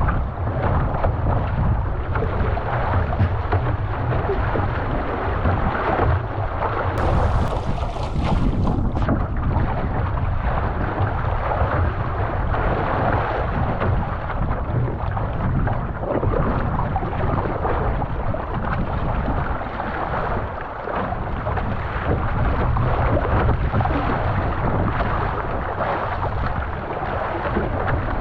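Wind buffeting the microphone over water rushing past a canoe being paddled on open ocean, steady and loud throughout.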